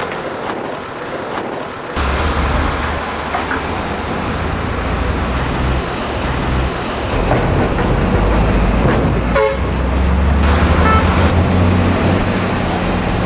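Narrow gauge locomotive running close by, getting louder about two seconds in, with a short horn toot about nine and a half seconds in.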